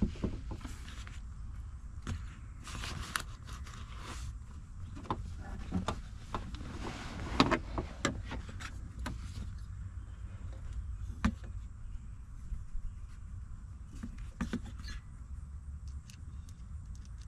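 Scattered clicks, knocks and rustling of hands working on a vehicle's dash panel and wiring, over a steady low rumble.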